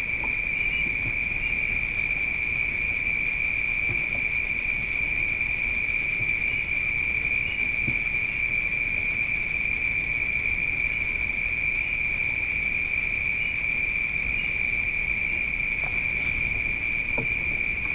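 Crickets and other night insects chirring steadily, a continuous shrill drone at two high pitches that never breaks, with a few faint clicks near the end.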